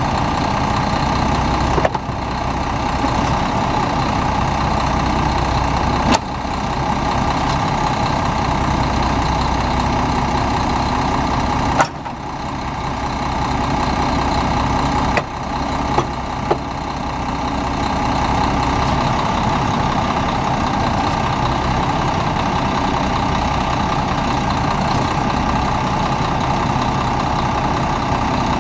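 Cummins ISM six-cylinder turbo diesel of a concrete mixer truck idling steadily, with a few sharp clicks and brief dips in level along the way.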